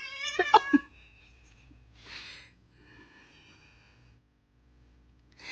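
A domestic cat's short, rising yowl with a few light knocks, then two short breathy hisses, one about two seconds in and one at the end, with a faint whine between them: an annoyed, defensive cat.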